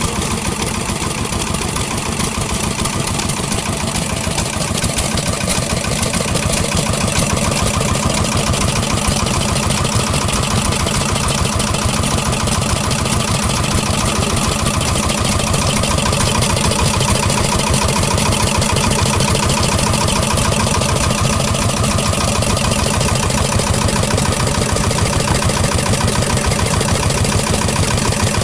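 Vintage engine running steadily with a fast, even firing beat.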